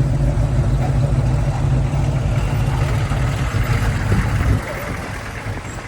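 Classic American car's engine running with a steady low rumble as it drives by, dropping off about four and a half seconds in.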